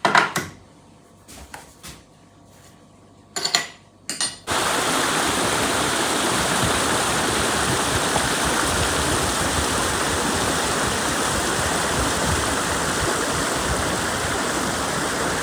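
A few sharp knocks and clatters, then, about four and a half seconds in, a steady rushing of running water starts abruptly and carries on.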